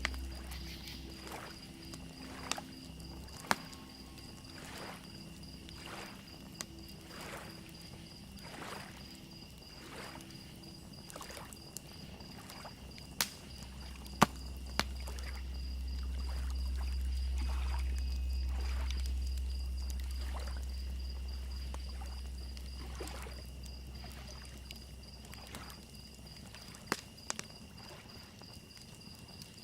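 Lake water lapping at a shoreline in soft repeated swishes, with a slow low swell of a wave through the middle. Under it crickets chirp in a steady high trill, and a crackling fire gives a few sharp pops.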